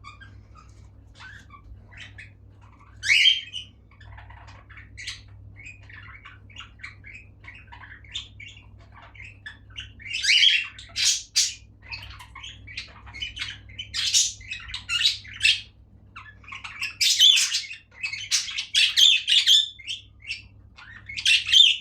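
A flock of pet budgerigars chattering and chirping continuously, with louder bursts of squawking calls several times.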